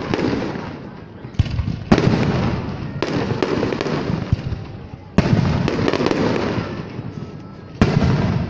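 Fireworks display: aerial shells bursting in about five loud bangs one to two and a half seconds apart, each trailing off over a second or two.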